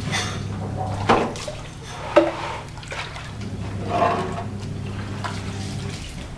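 Water sloshing and splashing as gas stove burner parts are scrubbed clean by hand in detergent water, in several short bursts, over a steady low hum.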